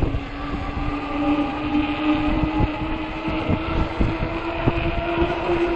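Ecotric 48 V fat-tire e-bike's electric motor whining at a steady pitch while riding, over wind buffeting the microphone and the rumble of fat tyres, with a few small knocks from bumps.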